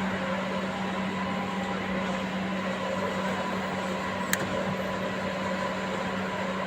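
Steady machine hum with a constant low drone, and a single sharp click a little past the middle.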